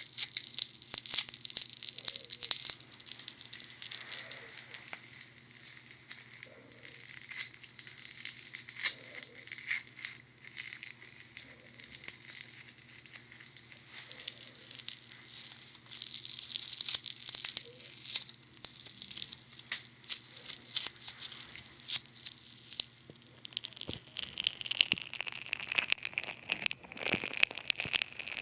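Funny Foam bath foam pressed and worked right against a dummy head's ear microphones, crackling and popping with dense fine fizzing. It is busier near the start and again around the middle, and lighter in between.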